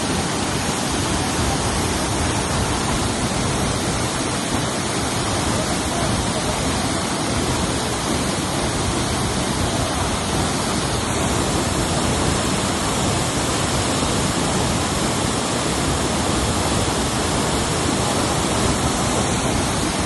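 Waterfall: a steady rush of falling water, an even noise with no breaks or changes.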